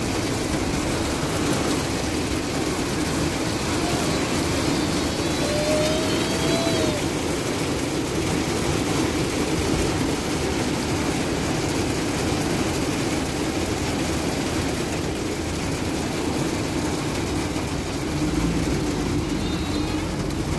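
Torrential rain falling on a car's roof and windows, heard from inside the car as a steady, unbroken rush of noise.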